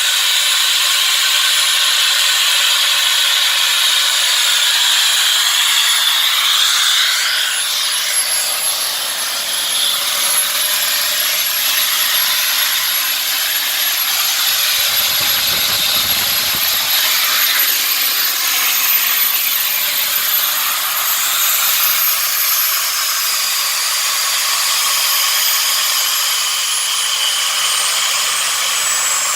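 Home-made gas turbine engine running on its new combustion chamber: a steady loud rushing hiss with a thin high whine that slowly drops in pitch over the last few seconds.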